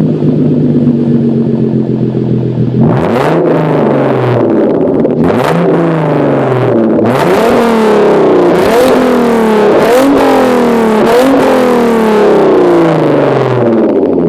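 Hyundai Genesis Coupe 3.8 V6 through a straight-piped Isis Race catback exhaust with test pipes, idling, then blipped once, again about two seconds later, and then revved in a quick series of throttle blips, about one every second and a bit, before dropping back to idle near the end.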